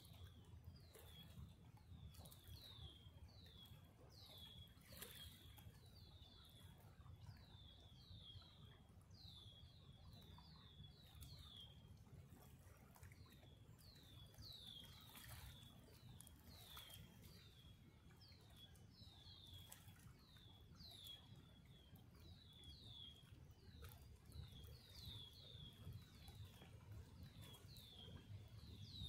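Faint bird chirps, short falling notes usually in quick runs of two to four, repeating all through, over a steady low rumble.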